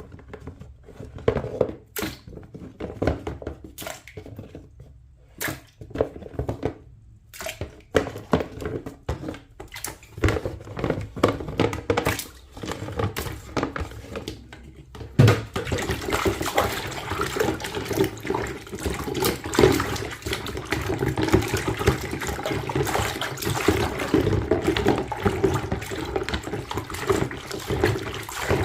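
Plastic toy animals knocking and clicking as they are handled. About halfway through, a steady rush of water begins as the muddy toys are washed.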